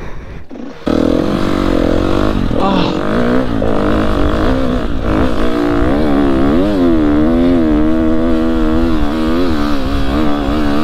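KTM motocross bike engine running under throttle, its pitch rising and falling as the rider opens and closes the throttle. It comes in abruptly about a second in.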